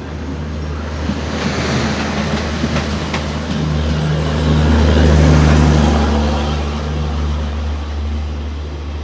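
An Indian Railways express train running past, a steady low rumble with track noise that builds to its loudest about five seconds in and then eases, with a few sharp clicks of wheels over rail joints about three seconds in.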